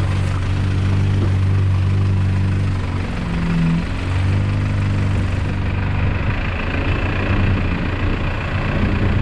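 Off-road 4x4 vehicle's engine running steadily at low revs, with a brief dip in level about three seconds in.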